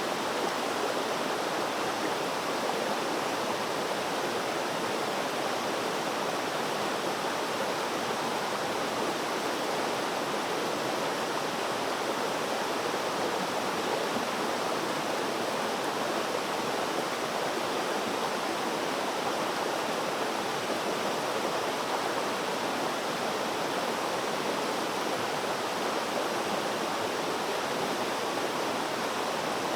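Flowing water rushing steadily and evenly, with no splashes or changes.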